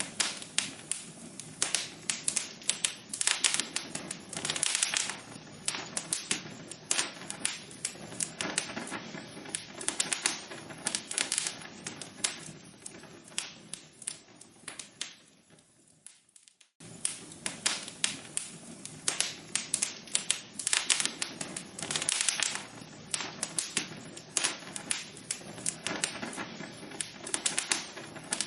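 Wood logs burning in a fireplace, crackling with many sharp irregular pops over a steady hiss. About two-thirds of the way in the crackling fades, cuts out for a moment and starts again abruptly, like a loop restarting.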